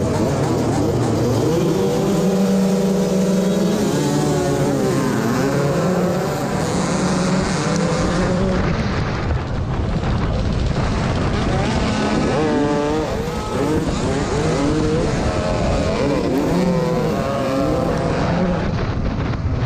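Several motocross bike engines running together, revving up and down with their pitches overlapping and rising and falling throughout.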